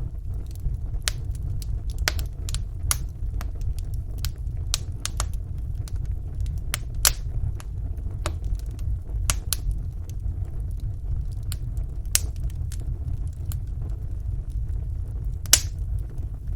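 Wood fire burning in a fireplace: irregular small crackles and snaps over a low, steady rumble of the flames, with one louder pop near the end.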